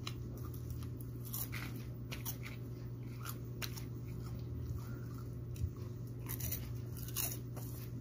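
Close-up crunchy chewing of sugar-coated peanuts, with irregular crackly crunches, over a steady low hum.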